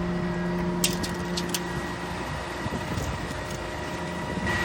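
Truck engine idling steadily, with a few light clicks about a second in.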